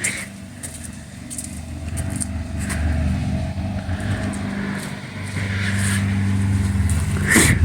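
A motor vehicle's engine running with a steady low hum that gets louder about five seconds in, with a few faint clicks.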